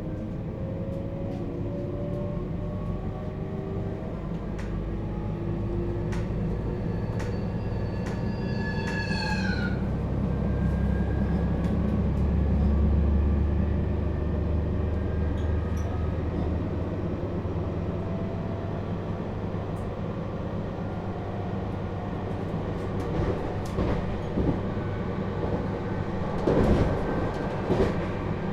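Toshiba GTO-VVVF inverter and traction motors of a JR Hokkaido 721-series electric train, heard from inside the motor car. The inverter whine climbs in pitch in several tones as the train accelerates, and a stack of tones sweeps down at about nine seconds. The train then runs on with a steady wheel rumble, and a few sharp clicks from the rails come near the end.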